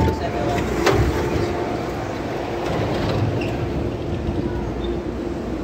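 MTR Tung Chung Line CAF electric train running along the line: steady rumbling running noise with a steady hum. Two sharp knocks come in the first second.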